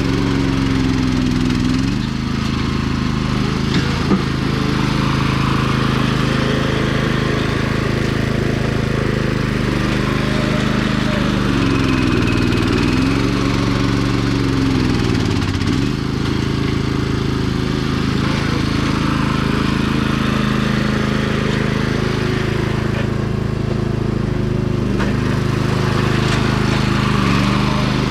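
Sears 10XL garden tractor's engine running steadily while the tractor pushes dirt, its pitch dipping and recovering a couple of times as the load changes. There is a single sharp click about four seconds in.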